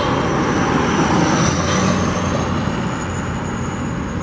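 Steady, loud engine noise of road traffic, with a thin high whine that slowly rises in pitch.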